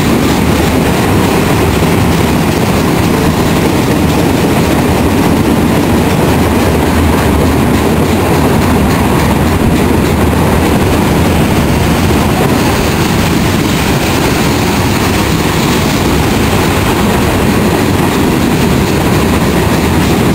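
Union Pacific manifest freight train's cars rolling steadily past on the rails.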